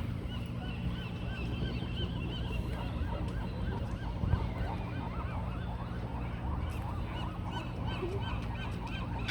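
A dense chorus of many overlapping short honking calls from a crowd of animals, over a steady low rumble.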